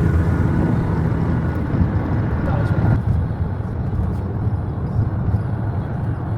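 Low, steady road and engine rumble of a car, heard from inside the cabin while driving.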